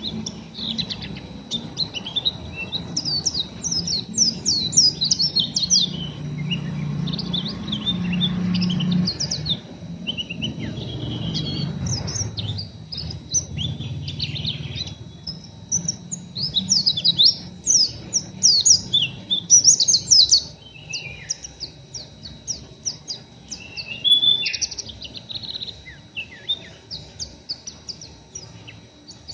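White-eye (pleci) twittering in a dense run of rapid, high, short chirps: the rough 'ngeriwik' of a raw, still-untrained bird. A low hum runs underneath for about the first twelve seconds.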